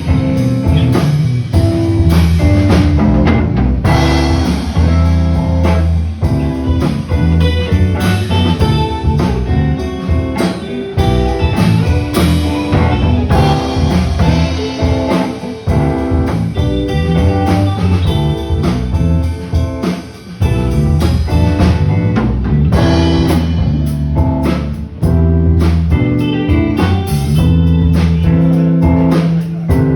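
Live band music: guitar playing over a drum kit, with a brief drop in level about two-thirds of the way through.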